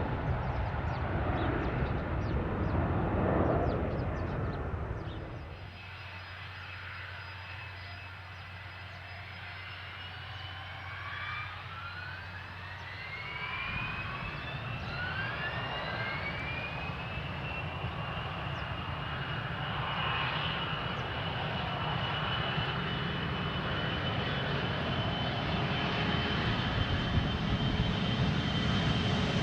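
Business jet turbine engine spooling up: several rising whines climb in pitch and settle into a steady high-pitched whine, with a low rumble slowly building under it. Before that, for the first few seconds, a louder stretch of jet noise breaks off abruptly.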